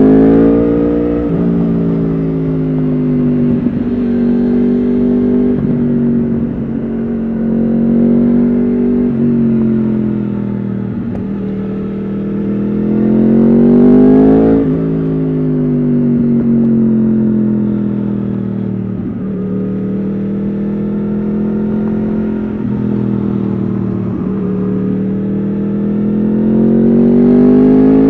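Yamaha R1 RN22 crossplane inline-four with an Akrapovič exhaust, heard from the rider's seat while riding: the engine note climbs under acceleration, drops sharply about halfway through, holds steady at cruise, and climbs again near the end.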